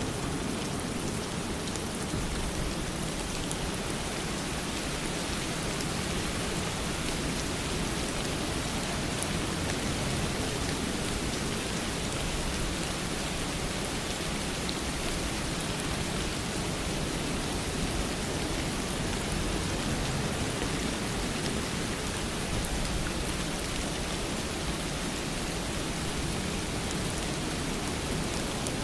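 Steady rain falling, an even, unbroken hiss with no lulls or single claps.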